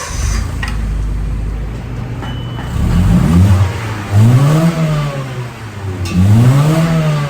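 Honda Civic engine through its stock exhaust, idling steadily and then revved three times, each rev rising and falling in pitch.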